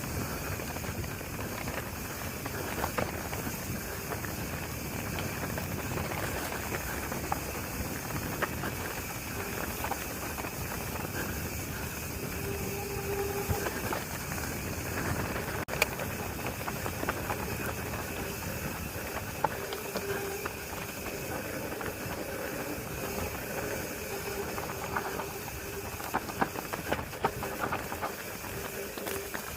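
Mountain bike being ridden on a trail: a steady rush of tyre and wind noise, with scattered clicks and rattles from the bike.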